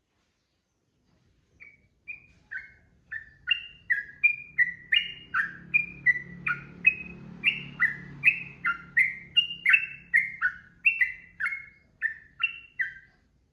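Yellow-vented bulbul (trucukan) singing a long, unbroken run of short, clear notes, about two or three a second. The song starts about a second and a half in and stops just before the end.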